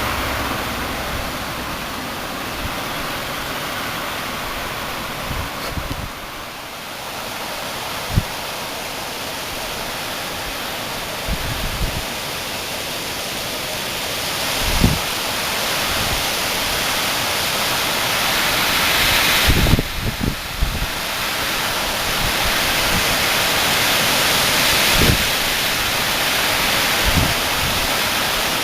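Strong gusty wind rushing steadily, growing louder in the second half, with a few brief low thumps of gusts hitting the microphone.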